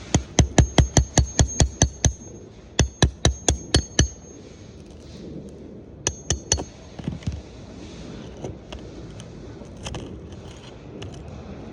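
Hammer striking metal in quick bursts, about five or six blows a second with a high ringing clink on each: roughly eleven blows, a short pause, six more, then four, followed by softer scattered taps. This is roofing work on a shingle repair, typical of driving a flat bar or nails under the shingles.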